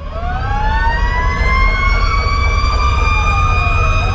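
Fire engine sirens: a mechanical siren, typical of the Federal Q2B, winding up from low to a steady high wail, layered with an electronic siren sweeping down and back up and a fast pulsing tone. The truck's Detroit Series 60 diesel rumbles underneath.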